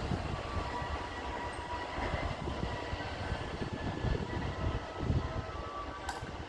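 Freight train running past, a steady rumble with irregular low thumps and thin, high squealing tones. A short sharp click comes about six seconds in.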